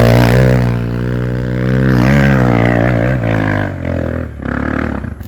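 Dirt bike engine running close by at a fairly steady pitch, wavering slightly about two seconds in and dropping away near the end.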